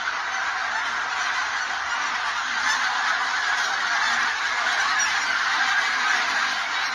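A flock of wild geese honking, many calls overlapping into a steady, continuous din.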